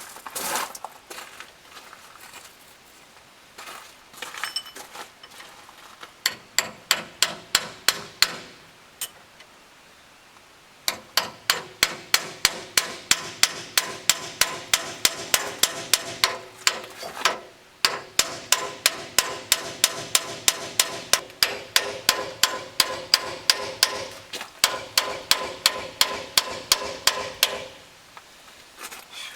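Hammer blows driving the aluminum gland of a hydraulic crane cylinder home, struck in quick runs of about four to five blows a second with short pauses and a metallic ring. It is being hammered round because no spanner wrench is to hand, which scars the aluminum.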